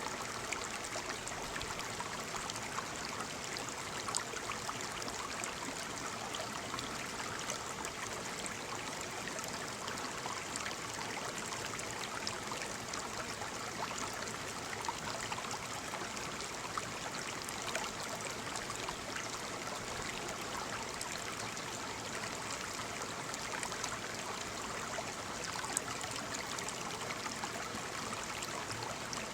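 Small waterfall splashing steadily, an even rush of falling water with small irregular splashes.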